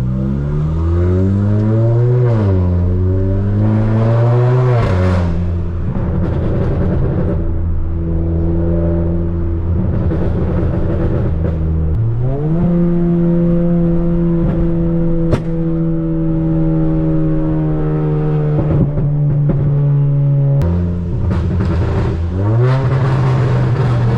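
Turbocharged Volkswagen Polo GTS engine with a Stage 2 tune and sport exhaust, revving up and down and climbing in pitch through the gears, then holding steadier tones with quick rises in revs. The sound changes abruptly a few times.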